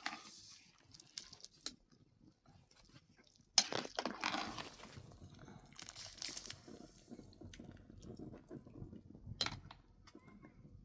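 Irregular crunching and rustling with scattered sharp clicks and knocks, one sharper crack about a third of the way in.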